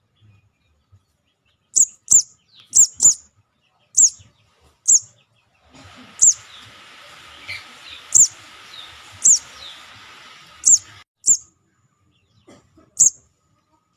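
Young sogon calling, played as a bird-trapping lure: short, high, sharply falling chirps, singly and in quick pairs, about a dozen in all. A steady hiss with fainter chirps in it sits behind them from about six seconds in until about eleven seconds.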